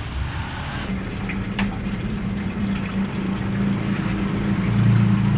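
Running water over a steady low hum that sets in about a second in.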